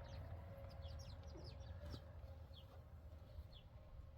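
Faint bird calls: a scatter of short, high chirps, most in the first couple of seconds, over a low steady background hum.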